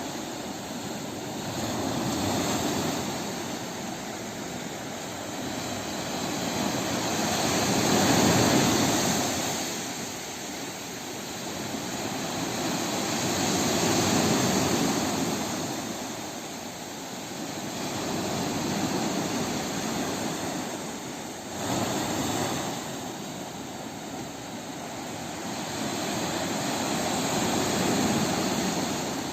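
Sea waves washing ashore, the surf swelling and falling back about every five to six seconds, with a sharper break at about 21 seconds in.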